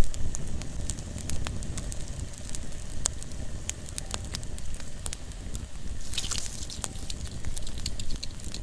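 Small campfire crackling, with many scattered sharp pops over a low, steady rustle of burning wood. A short hissing burst comes about six seconds in.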